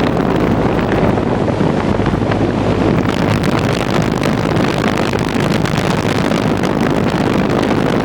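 A 1982 GE Executive 2-ton central air conditioner's outdoor condensing unit running steadily while cooling: a constant rush of air from the condenser fan over a low hum.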